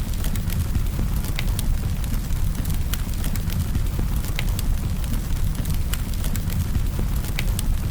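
Campfire burning: a steady low rumble of flames with scattered sharp crackles and pops of burning wood, several a second.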